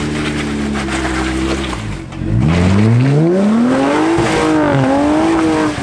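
Jeep engine running steadily off-road, then about two seconds in revving up sharply and holding high revs with a wavering pitch, as when a rock obstacle is taken with momentum.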